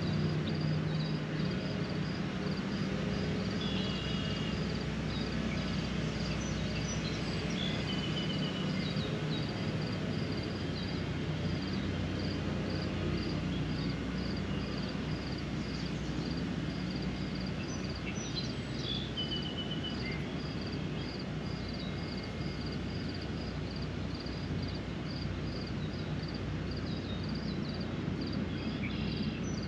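Steady spring rain with a low, even rumble under it, while some creature repeats one short, high peep about one and a half times a second. Birds add a few brief trilled calls now and then.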